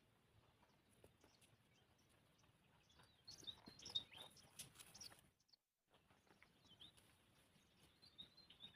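Faint outdoor ambience with small birds chirping in short high calls, a cluster about three seconds in and another near the end, over scattered light clicks and rustles. The sound cuts out completely for about half a second after the first cluster.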